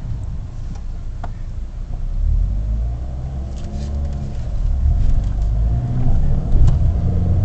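Mini Cooper engine and road rumble heard from inside the cabin while driving. The engine note rises as the car accelerates, from about halfway through.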